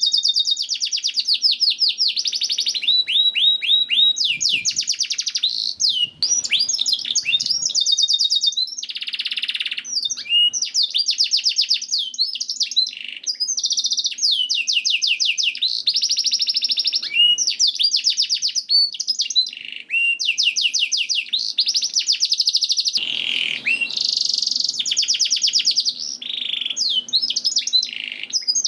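Domestic canary singing continuously: long runs of rapid trills and repeated high notes, with a brief harsh rasping note twice.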